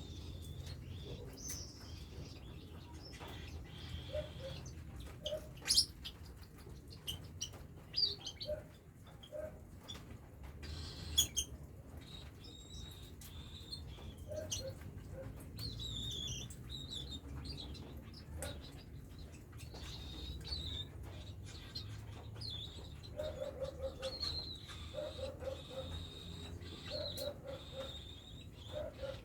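Cockatiels chirping and calling. High chirps and short glides come with runs of quick low notes, and a few sharp clicks sound over a steady low hum.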